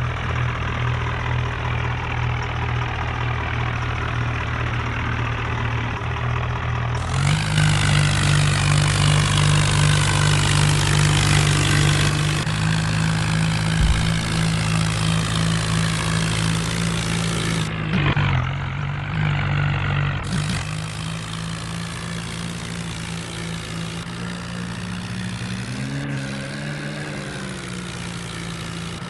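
Tractor engine running under load. It picks up revs about seven seconds in, holds the higher speed, then eases back to a lower, steady speed around twenty seconds in.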